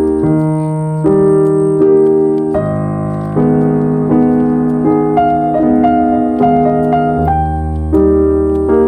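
Background music: slow, calm piano chords changing about once a second.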